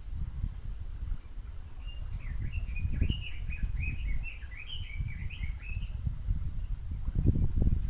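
A songbird singing a quick run of chirping notes for about four seconds, over a steady low rumble that grows louder near the end.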